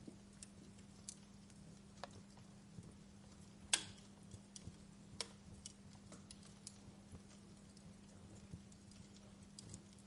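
Wood fire crackling in a fireplace: faint, irregular pops and snaps, the loudest a little under four seconds in, over a steady low hum.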